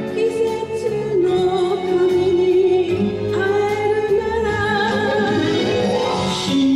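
Enka duet sung over a karaoke-style backing track, a voice holding long wavering notes with a brighter instrumental flourish near the end.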